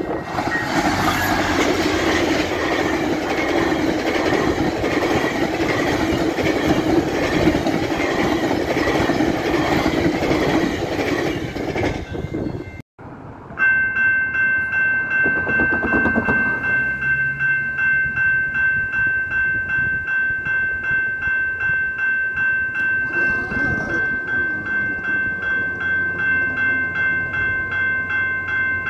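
A GO Transit passenger train, MP40 and F59PH diesel locomotives running as a doubleheader, passes at about 120 km/h with a loud steady rush of engines and wheels. After a sudden cut, level crossing warning bells ring in a steady rhythm of roughly two strokes a second.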